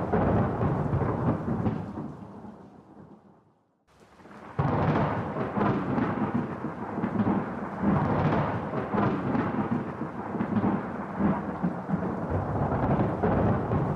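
Thunderstorm: rolling thunder rumbling over steady rain. About four seconds in, the sound fades almost to silence, then cuts back in abruptly and rumbles on.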